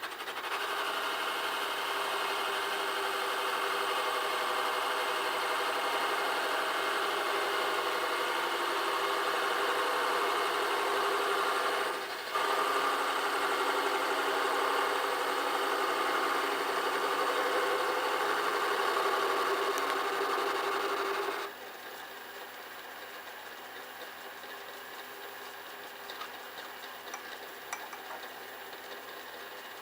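Metal lathe running, with the home-made ball turner in use, as a steady mechanical noise that dips briefly about twelve seconds in and stops suddenly about twenty-one seconds in.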